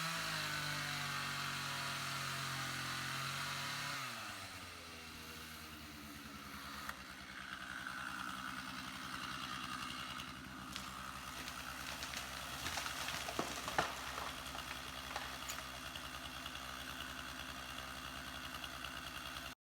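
Two-stroke chainsaw running at high speed, then dropping to a steady idle about four seconds in. Several sharp cracks and snaps come over the idling saw, the loudest about two-thirds of the way through.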